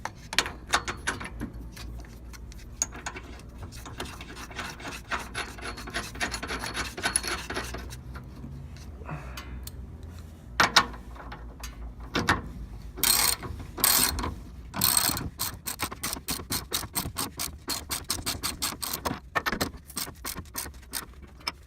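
Socket ratchet clicking in quick runs as a deep socket tightens a 19 mm nut and washer onto the car's loose front suspension bolt. Several louder clicks or knocks come about halfway through.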